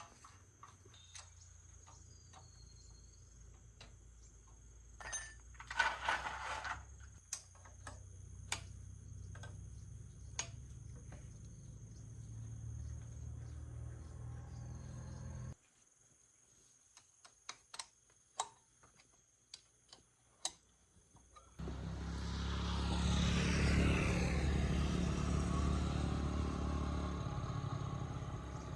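A motor-driven machine runs twice: a low hum builds for about fifteen seconds and cuts off suddenly, then after a pause it starts again louder and keeps running. Sharp metallic clicks and taps are scattered throughout.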